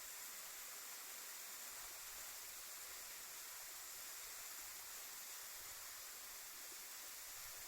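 Steady, even rush of a tall straight-drop waterfall, about 40 m high, heard as a faint, unchanging hiss of falling water.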